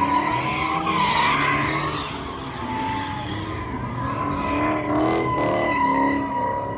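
A car spinning donuts, its tyres squealing in a long, wavering screech over its revving engine.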